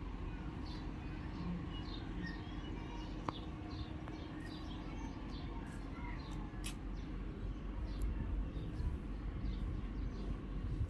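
Small birds chirping again and again over a steady low outdoor rumble, with a few sharp clicks.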